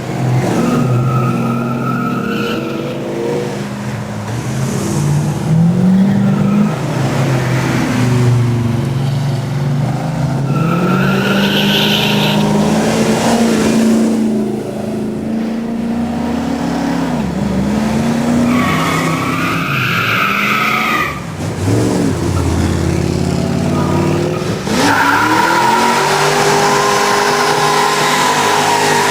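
V8 race car engine running hard, its pitch climbing and dropping back over and over as it revs and shifts. Tyres squeal several times, the longest squeal near the end.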